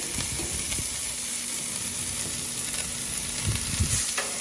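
Chicken breasts and potatoes sizzling steadily in hot oil on a flat-top griddle, a continuous frying hiss, with a couple of soft low knocks near the end.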